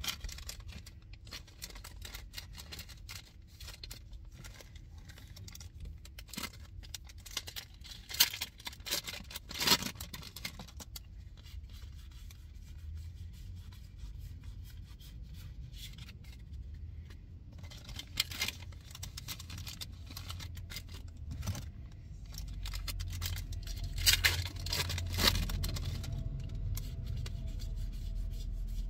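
Pokémon booster packs being handled and opened: foil wrappers crinkling and tearing in several short bursts, with cards rubbing and sliding between them.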